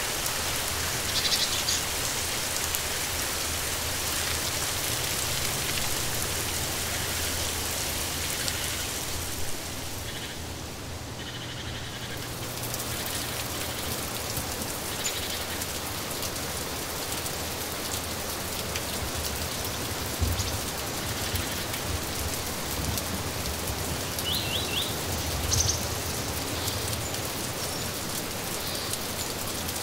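Steady rain falling, with a few short, faint bird chirps now and then and a couple of louder low thuds from heavier drops.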